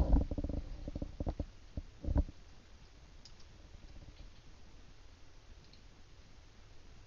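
A quick run of small clicks and knocks from hands and small tools working on an opened iPod Touch, over about the first two seconds, then only faint room tone.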